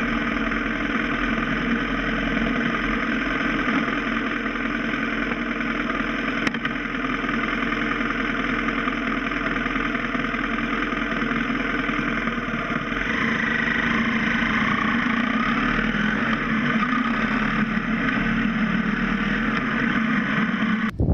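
BMW F650 GS motorcycle engine running at a steady low speed, with road and wind noise, heard from a camera mounted on the bike. It gets a little louder in the last third.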